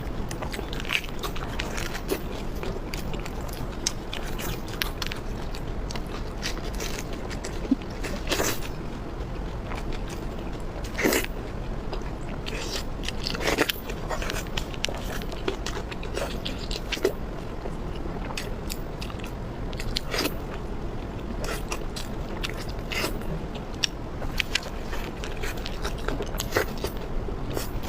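A person chewing and biting food close to the microphone: irregular wet clicks and crunches, a few of them sharper and louder, over a low steady hum.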